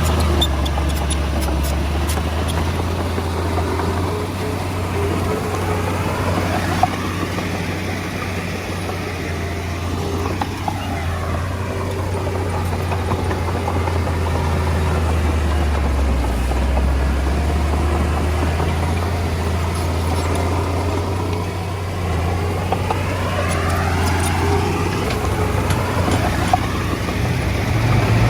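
Komatsu D20A bulldozer's diesel engine running steadily under work, with a few faint clicks and clanks from the machine.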